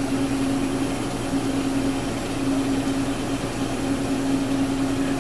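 Gravograph M20 desktop engraving machine running steadily while it engraves an anodized aluminium tag: an even mechanical hum with one constant tone over a hiss of noise.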